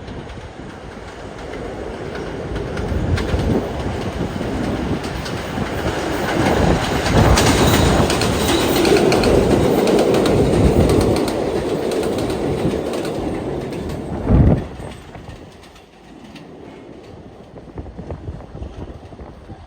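New York City subway train running along the track, growing louder to a peak in the middle with clatter of wheels over rail joints, then a single loud bang about fourteen seconds in before the sound drops away.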